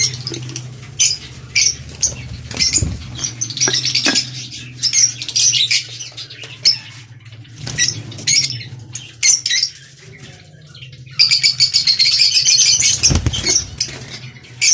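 Lovebirds chattering: shrill high-pitched chirps in quick bursts, running together into dense continuous chatter about eleven seconds in. A steady low hum sits underneath.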